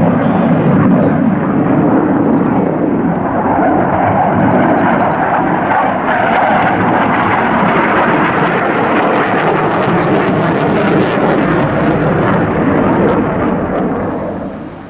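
An aircraft flying past, its engine noise loud and steady, then fading away near the end.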